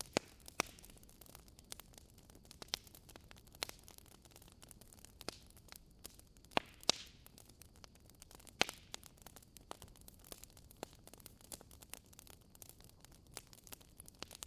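Wood fire in a fireplace crackling, with irregular sharp pops and snaps over a soft hiss; the loudest pops come near the start, about halfway through and shortly after.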